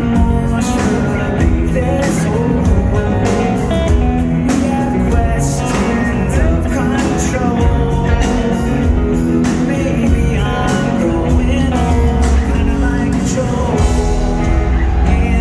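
Rock band playing live, a loud, continuous full-band passage with a steady beat.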